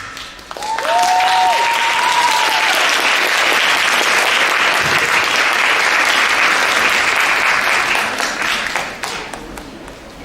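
Audience applauding as the music stops: clapping swells about half a second in, holds steady, then dies away over the last couple of seconds. Brief high voices call out over it near the start.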